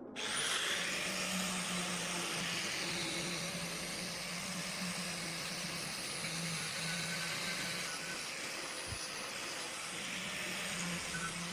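A steady rushing hiss of a workshop machine running, starting suddenly, with a faint high whine and a low hum under it.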